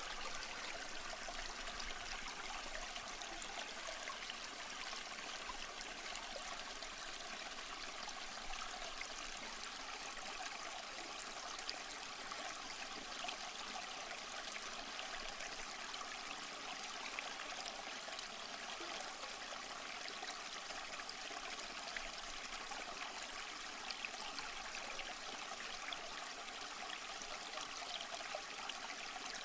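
Small stream flowing over rocks: a steady trickling and gurgling of shallow water.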